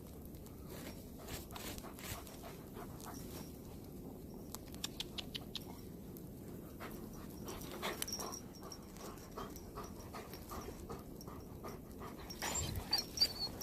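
A dog panting, with irregular crunching steps through deep snow.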